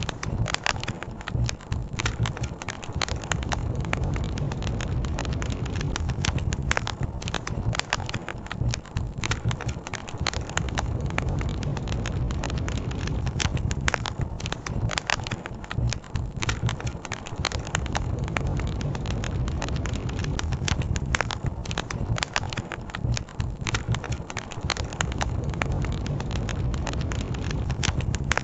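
Wood campfire crackling with frequent irregular pops, over the steady low rush of a river.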